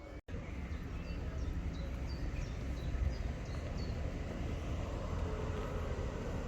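Steady low outdoor rumble with small birds chirping in short, repeated high notes; the sound drops out briefly about a quarter second in.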